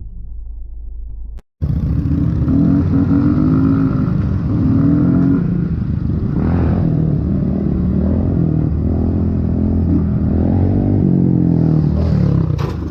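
Vehicle engine running loud, its pitch rising and falling as it revs. It starts with a sudden cut about a second and a half in, and a few sharp knocks come near the end.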